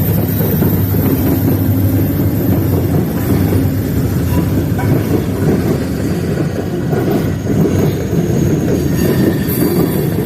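A freight train rolling past, a steady rumble of railcars on the rails, with faint high wheel squeals in the second half.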